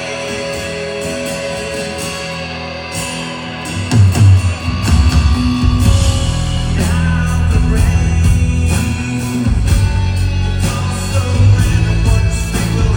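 Live rock band playing through a concert PA, with guitar and singing. About four seconds in, the full band comes in much louder, with heavy bass and drums.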